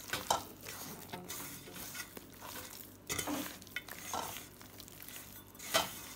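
Raw chicken pieces in a wet masala of cornflour and spice powders being mixed and kneaded in a bowl: irregular wet stirring strokes, with louder ones shortly after the start, around three seconds in, and near the end.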